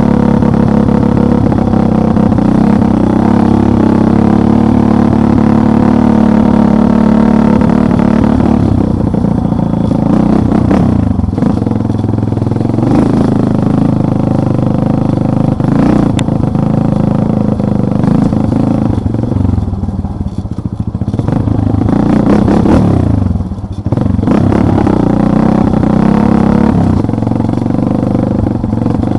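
Motorcycle engine running under way while riding over rough ground, loud and continuous, the revs falling and picking up again twice as the throttle is eased off and reopened.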